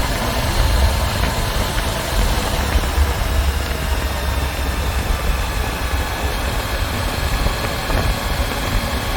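Motorcycle engine running steadily under a continuous low rumble and hiss.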